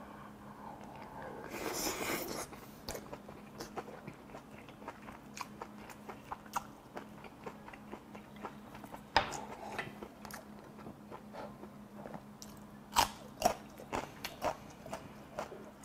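Close-miked chewing of a mouthful of rice with braised kimchi and pork rib meat: wet mouth clicks and smacks throughout, a breathy burst about two seconds in, and a few sharper, louder clicks later on.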